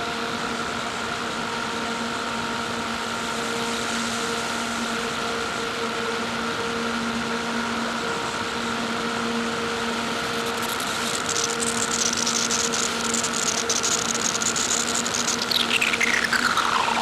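Electronic synthesizer drone: steady held tones over a hissing noise bed. About ten seconds in a crackling, wavering high noise texture joins, and near the end a tone sweeps steeply down in pitch.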